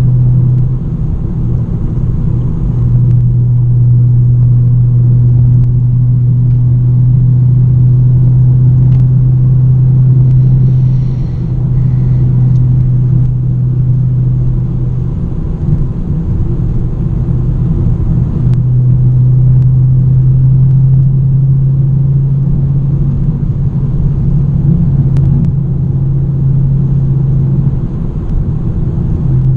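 Straight-piped BMW E90 under way: a steady, loud low exhaust drone at cruise. The drone falls away briefly a few times as the throttle eases off, then comes back.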